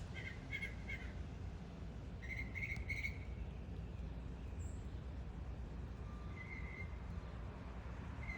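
Northern mockingbird singing: several short bursts of quickly repeated high notes with pauses between them, over a steady low background noise.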